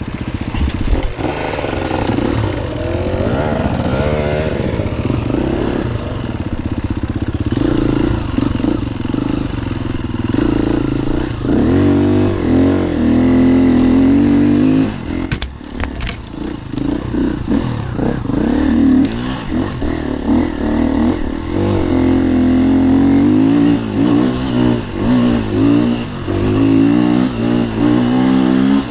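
Enduro dirt bike engine being ridden, its pitch rising and falling constantly with the throttle. A few sharp knocks come about halfway through.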